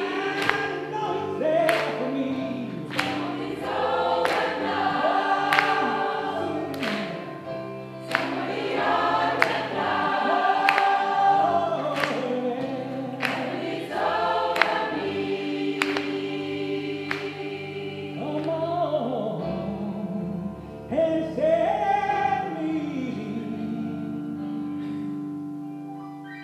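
Gospel choir singing in parts over steady bass notes, with a sharp regular beat that stops about two-thirds of the way through. Near the end the song dies away.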